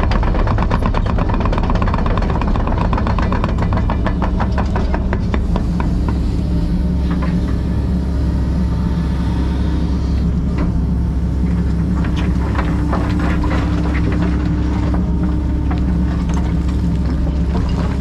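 Kobelco SK140 excavator's diesel engine running steadily with a deep hum, under rapid clicking and metallic clatter that is thick for the first few seconds and returns for a while later on.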